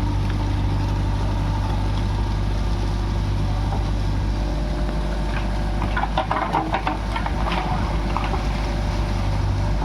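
JCB 3DX backhoe loader's diesel engine running steadily under digging work, with a short burst of scraping and clattering about six seconds in.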